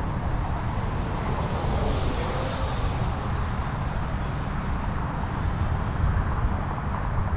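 Freewing T33 Shooting Star 80mm electric ducted-fan RC jet in flight: a rushing fan noise with a high whistle that comes in about a second in, steps up in pitch around two seconds, and fades out after about four and a half seconds. A heavy low rumble runs underneath.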